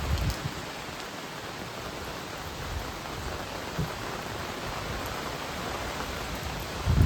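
Strong wind blowing with a steady rushing hiss, and gusts rumbling on the microphone at the start and again near the end.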